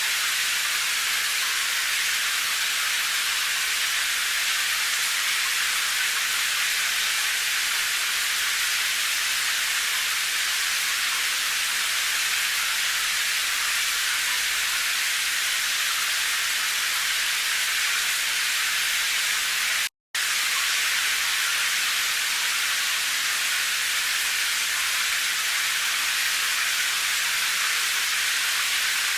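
Steady rain, an even hiss with no single drops standing out. It cuts out completely for a split second about twenty seconds in, then carries on unchanged.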